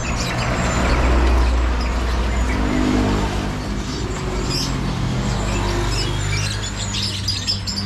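Caged songbirds chirping with short high calls, over the steady engine of a passing road vehicle that is loudest about a second in.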